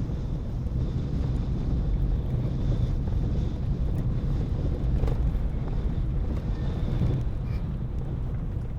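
Steady road and engine noise of a car being driven, a low rumble from the tyres and motor with wind buffeting the microphone.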